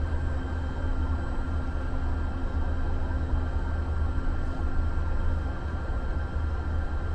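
Interior of a Muni Metro light-rail car running through the subway tunnel: a steady low rumble with a few faint, constant whine tones above it.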